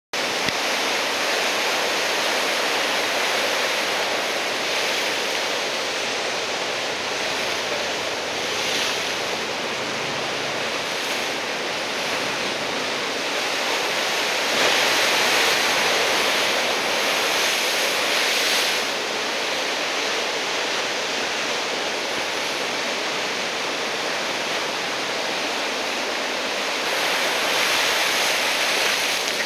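Heavy ocean surf from a typhoon swell: large waves breaking and washing in as a continuous rushing hiss, swelling louder several times as bigger waves break.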